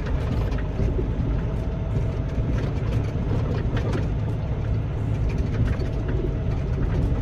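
Semi-truck diesel engine running steadily with a low rumble.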